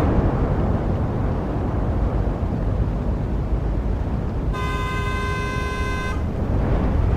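Steady road traffic noise from passing cars, with a car horn sounding once in a single held honk of about a second and a half, a little past halfway through.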